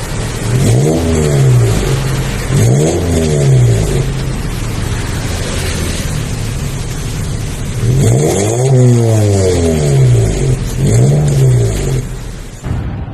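Turbocharged Honda Civic hatchback with an aftermarket turbo-back valvetronic exhaust, revved in about five short blips. The pitch rises and falls on each blip, and two come close together late on.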